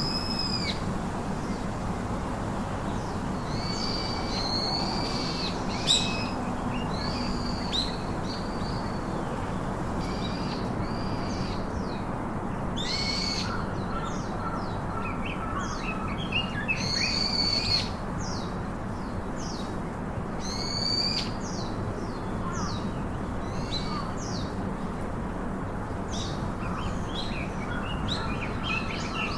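Several birds calling throughout, with repeated short arched whistled calls and quick chirps over a steady background hiss.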